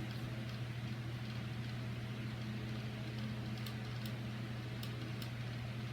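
Steady low machine hum, like a fan or other running appliance in a small room, with a few faint light clicks during the second half.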